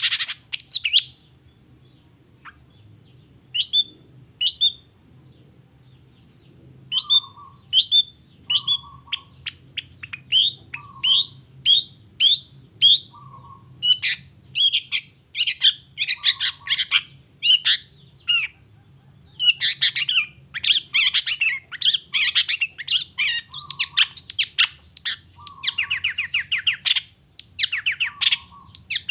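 Long-tailed shrike (cendet) singing a rapid, varied song of high chattering notes, with a lower short note repeated about once a second. The song is sparse for the first few seconds, then grows denser and busier.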